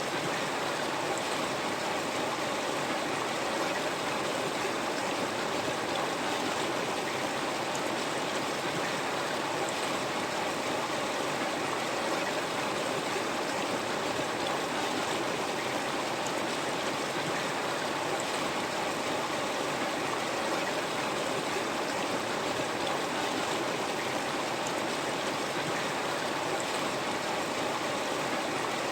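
River water flowing steadily over rocks, a continuous rushing and babbling with no change in level.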